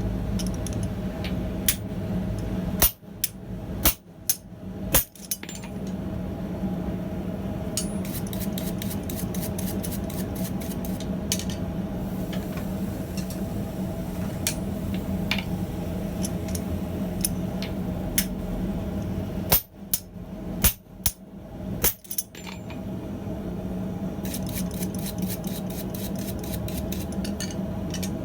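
Hammer striking steel on an anvil over the steady hum of a running propane forge: a few hard single blows, then runs of quick light taps at about four a second.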